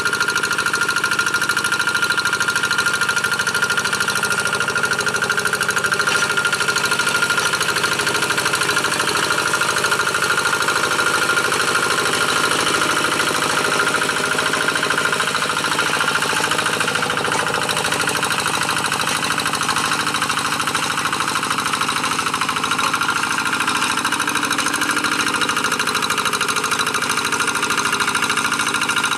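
G1000 two-wheel hand tractor's single-cylinder diesel engine running steadily while pulling a moldboard plough through dry paddy soil: a rapid even chugging with a steady high whine on top.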